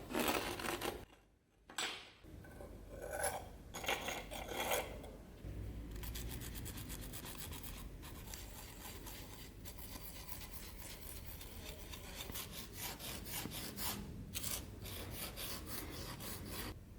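Abrasive hand-rubbing on the rusty steel blade of a pchak knife. A few separate scrapes come first, then rapid steady back-and-forth strokes from about five seconds in, as the surface rust is scrubbed off.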